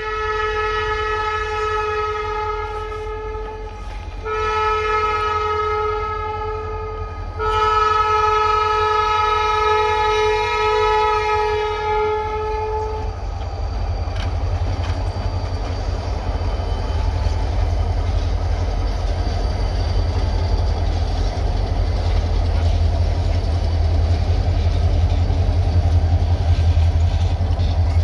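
Diesel freight locomotive's chord horn sounding the grade-crossing signal: three long blasts, the third the longest, ending about halfway through. Then the locomotives, one of them an EMD GP38, pass close by with a loud, steady engine drone and wheel noise that grows louder near the end.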